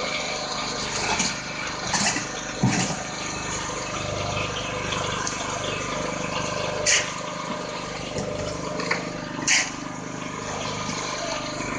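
A motor runs steadily throughout, with five or so brief sharp sounds standing out at intervals, the loudest about seven and nine and a half seconds in.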